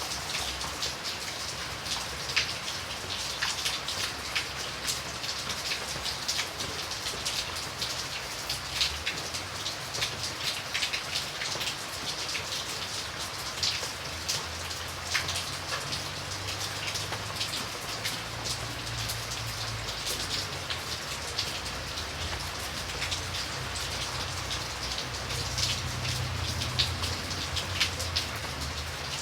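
Steady rain falling on a surface: a dense patter of separate drops over an even hiss. A low rumble swells under it in the middle and again near the end.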